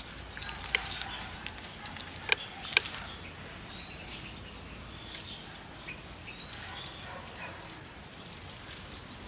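A bird repeating a short, high, rising whistle about every three seconds, over a soft outdoor background. A few sharp clicks fall in the first three seconds.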